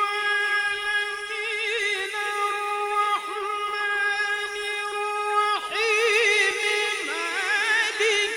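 A male qari's voice reciting the Qur'an in melodic tajweed style, holding one long drawn-out note. Wavering ornaments come in twice and the pitch glides upward near the end.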